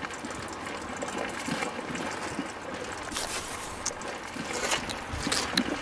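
Wet cement trickling from a miniature mixer's chute onto sand, followed by a small trowel scraping and patting it, with scattered light clicks.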